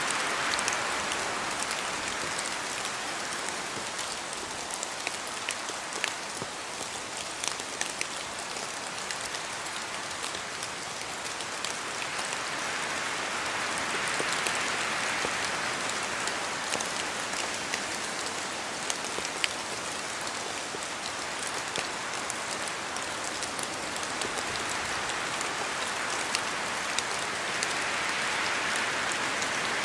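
Steady rain hissing, with scattered sharper drop ticks. The rain swells and eases, loudest about halfway through and again near the end.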